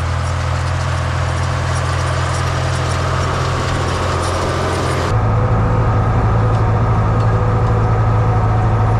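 Farm tractor engine running steadily with a low, even hum. About five seconds in the sound changes abruptly: the hiss on top drops away and the hum shifts to a slightly different pitch and grows a little louder.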